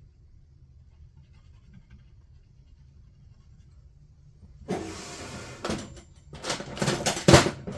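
Faint low hum, then from about two-thirds of the way in a run of loud rubbing and scraping strokes with a few sharp knocks, as of hands and tools working at a workbench.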